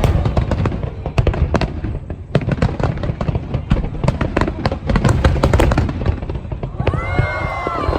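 Aerial fireworks going off in a rapid barrage: many overlapping sharp bangs and crackles over deep booms.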